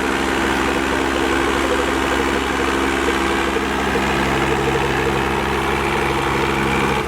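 Tractor diesel engine running steadily at an even, unchanging speed.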